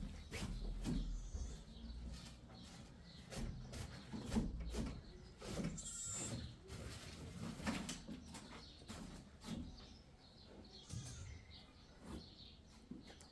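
Scattered knocks and clatter, with a few faint bleats from goats or sheep.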